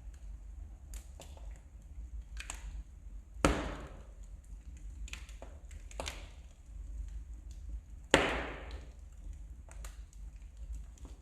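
Wood fire crackling in a fireplace: scattered small snaps and ticks, with two louder pops from the burning logs, about a third of the way in and again about three quarters through.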